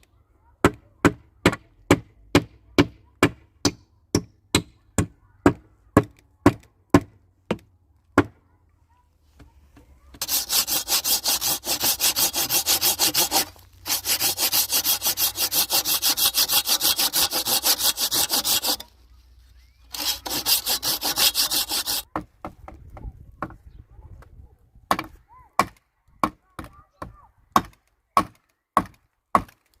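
Wood being worked by hand. A run of evenly spaced knocks, about two a second, gives way to a saw cutting through wood in three rasping bouts with short pauses between. Scattered knocks come near the end.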